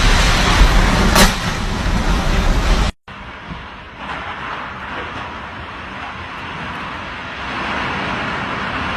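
Typhoon wind and rain, with gusts buffeting the microphone into a heavy rumble for about three seconds, then an abrupt cut to a quieter, steady rushing noise that swells slightly near the end.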